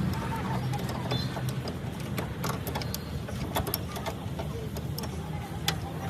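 A motor running steadily, with scattered sharp clicks and knocks over it.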